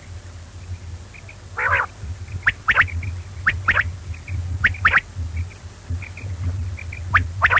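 Quail calling: short, sharp high-pitched notes, often in quick pairs, repeating every second or so, with fainter short chirps between them, over a steady low hum.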